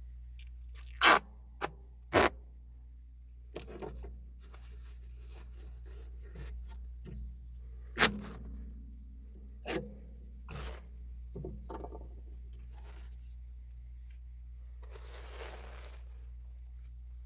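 Adhesive tape being pulled off the roll in a few short, sharp rips, with scraping and rustling as it is handled and smoothed on ductwork.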